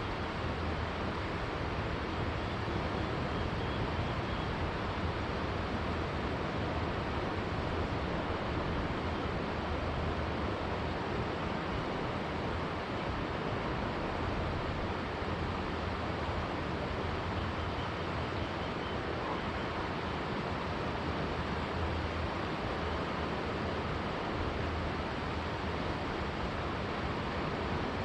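Steady, even sound of river water flowing.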